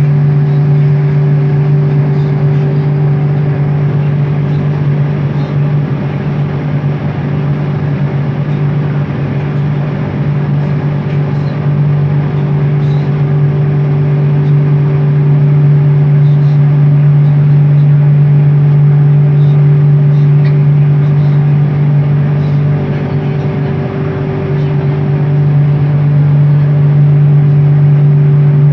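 Bombardier Innovia ART 200 metro train in motion, heard from inside the car: its linear induction motors give a steady low hum with a fainter higher tone above it, over the rumble of wheels on track. The sound eases slightly a couple of times.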